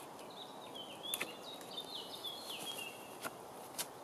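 A songbird singing a run of short notes that step down in pitch, over a faint steady background. A few light knocks of wooden sticks being handled, about a second in and near the end.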